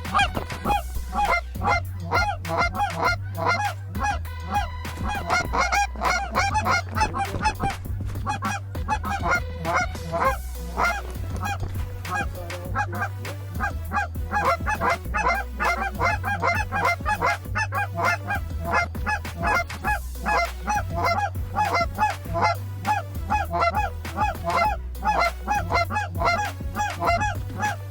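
A large flock of geese honking, many short calls overlapping in a dense, continuous chorus.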